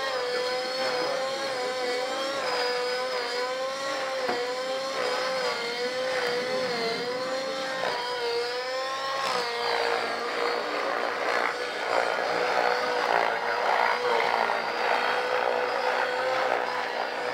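RC helicopter flying 3D aerobatics: a steady motor-and-rotor whine whose pitch wavers up and down as the head speed changes under hard collective. It settles to a steadier pitch with more rushing noise about halfway through.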